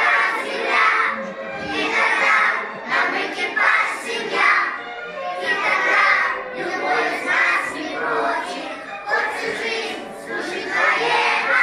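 A group of young children singing loudly together in short phrases over a backing track.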